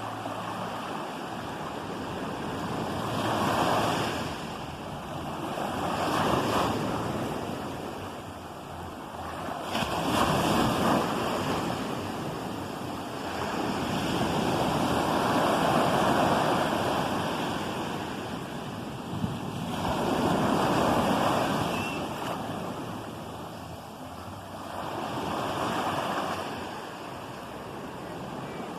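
Ocean waves breaking and washing up the shore, about six times, each surge of hissing surf swelling and fading over a few seconds.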